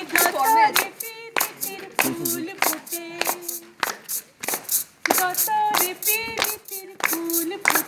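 A group clapping hands in a steady rhythm while voices sing along.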